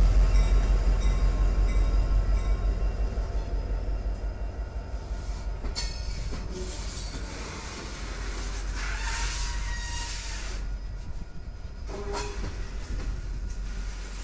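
Union Pacific diesel freight locomotive rumbling past close by, its engine sound fading as it goes, then covered hopper cars rolling by. The cars give two sharp knocks, and a brief squeal comes about nine seconds in.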